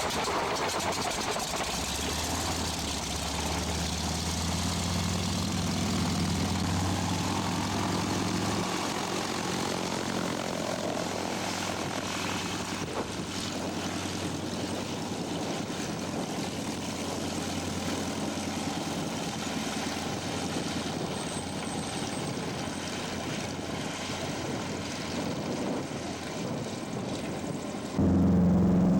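A Nanchang CJ-6's nine-cylinder radial engine running with its propeller turning. A steady low engine note drops out about eight or nine seconds in, leaving a broad rushing propeller and engine noise.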